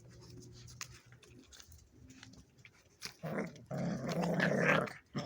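Dog growling low and steadily, then breaking into a much louder, harsh snarling outburst about three seconds in that lasts nearly two seconds: aggressive growling.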